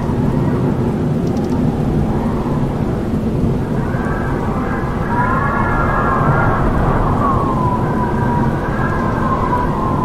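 Howling wind: a steady deep rushing with wavering whistling tones that rise and fall. From about five seconds in, a stronger whistle settles into a single held howl.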